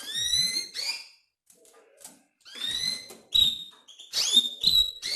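Canaries giving short rising whistled call notes, about six or seven in irregular bunches, over a faint steady hum.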